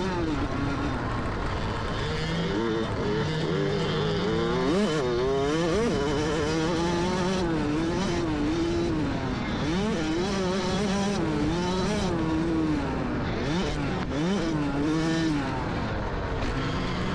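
Motocross dirt bike engines revving up and down on the track, their pitch rising and falling again and again as the throttle opens and closes.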